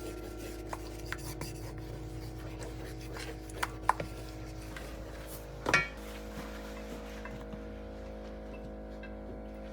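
Soft background music with held notes, over light kitchen sounds: a few small knocks and clinks of utensils, and a louder clatter about six seconds in.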